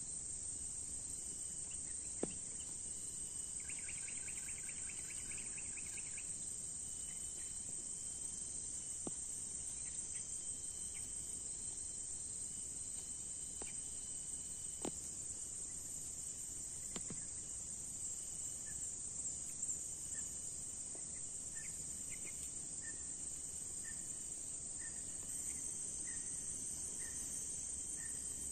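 Steady high-pitched chorus of crickets and other insects. About four seconds in, a rapid pulsed trill sounds for two seconds or so. In the last several seconds a short chirp repeats about once a second, and a few faint clicks fall in between.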